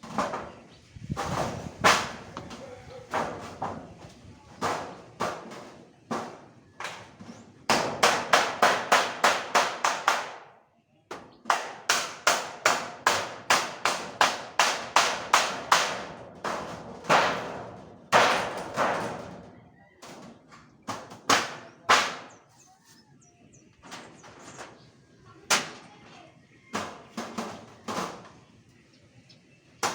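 Hand hammer blows, in quick runs of about four strikes a second with scattered single strikes between them.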